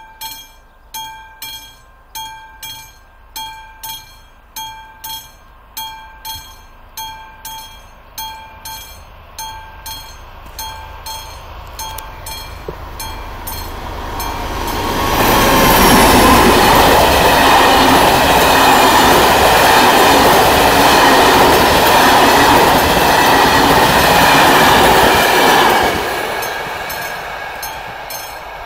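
Level-crossing warning bell ringing in even, pitched dings about one and a half times a second. Around the middle an old train arrives and passes loudly on the rails for about ten seconds, then drops away sharply as it clears the crossing, leaving the bell ringing again.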